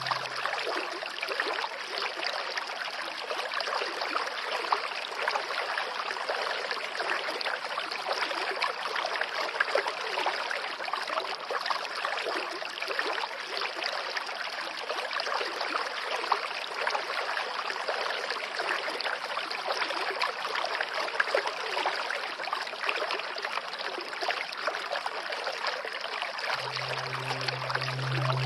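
Running water of a stream, flowing steadily with an even rush. A low steady drone comes in near the end.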